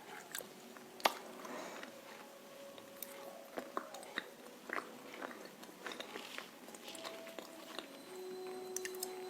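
A person biting and chewing crunchy roasted clay chunks, with sharp, crisp crunches at an irregular pace.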